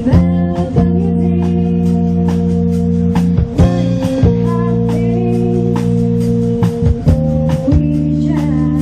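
A live pop band plays an instrumental passage: held keyboard chords with guitar, the chord changing every second or two.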